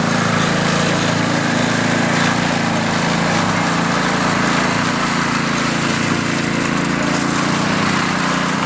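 Small engine of a concrete power trowel running steadily at constant speed.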